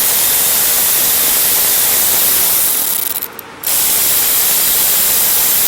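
Air ratchet running in two long hissing runs with a short break between them, backing out the two 7 mm bolts that hold the carburetor of a Briggs & Stratton mower engine.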